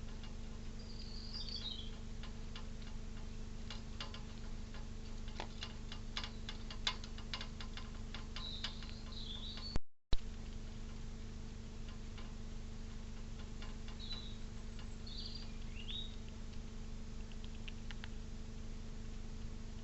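Small birds chirping in short bursts near the start, just before halfway and again about three-quarters through, with a run of light clicks and taps in between, over a steady low hum. The sound cuts out briefly halfway through.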